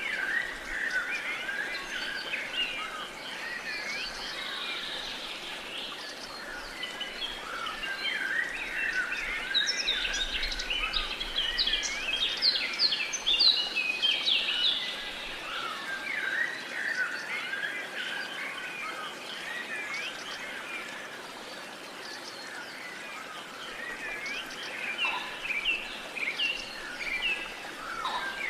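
Many birds chirping and singing together in a busy chorus of short calls and quick trills, busiest about ten to fifteen seconds in, over a faint steady outdoor hiss.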